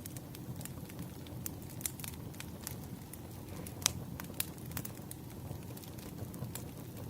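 Wood fire crackling: a steady low rumble of burning logs with irregular sharp pops and snaps, one louder pop about four seconds in.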